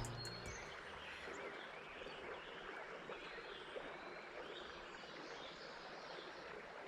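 Faint outdoor river ambience: a steady soft hiss like flowing water, with one small tick a little under four seconds in.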